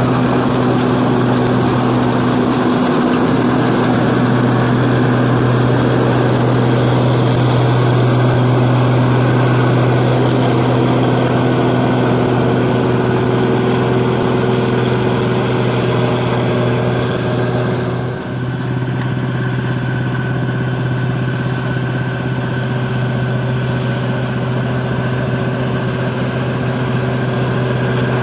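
New Holland 8060 combine harvester running steadily as it harvests paddy, a continuous engine drone with a strong low hum. About two-thirds of the way through the level dips briefly and the tone shifts, then the drone carries on.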